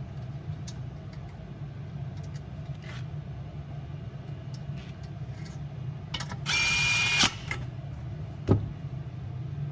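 A cordless drill/driver with a 10 mm socket runs once for under a second, about two-thirds of the way in, with a steady whine, driving a nut onto a diesel heater's plate stud. A few light clicks of metal parts being handled come before and after it, over a steady low hum.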